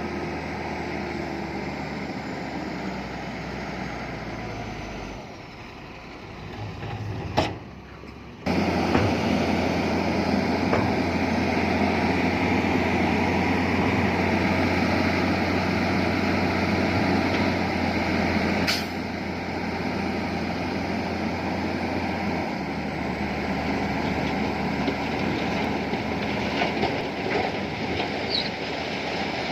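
Heavy diesel earthmoving machinery running steadily under load. Around seven to eight seconds in it briefly drops away with a sharp click, then comes back louder; another sharp click falls a little past halfway.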